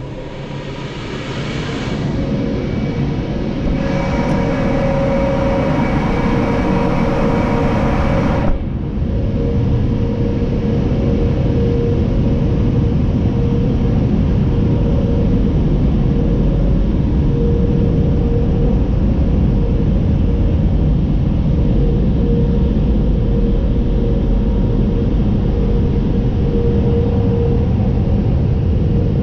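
Automatic tunnel car wash equipment, heard from inside the car. A hissing spray with a steady hum cuts off sharply about eight seconds in. It gives way to a steady, loud, low rumble with a constant hum.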